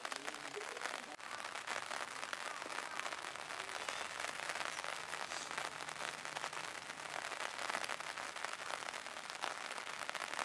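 Rain pattering steadily on hard surfaces, a dense crackle of drops, with a faint low hum underneath for a few seconds in the middle.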